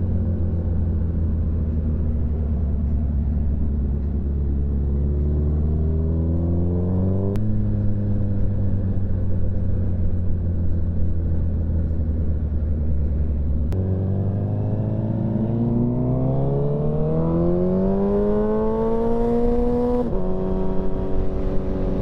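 Motorcycle engine pulling away and accelerating through the gears: the pitch climbs, then drops suddenly at each upshift, about 7 seconds, 14 seconds and 20 seconds in, and holds steady at cruising revs in between.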